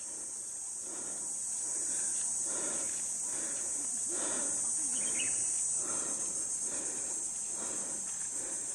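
A steady, high-pitched chorus of insects in the surrounding forest, with faint murmuring, possibly distant voices, underneath.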